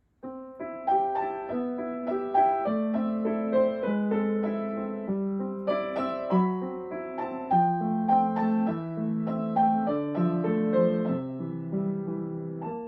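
Solo piano playing a lyrical sonatina, a steady flow of quick notes over a lower line that steps downward near the end.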